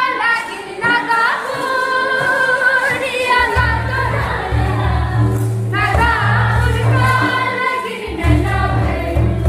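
A group of voices singing a song together. A deep, steady bass comes in about three and a half seconds in, drops out briefly near the end and returns.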